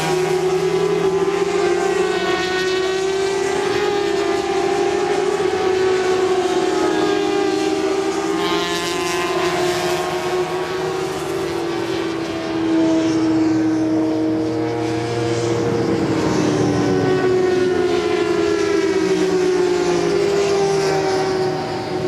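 Several 400cc supersport race motorcycle engines running together. Their pitch rises and falls as they are revved, with a louder swell about halfway through.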